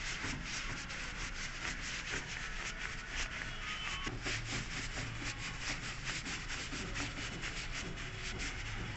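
Quick, rhythmic rubbing strokes, several a second, going on steadily.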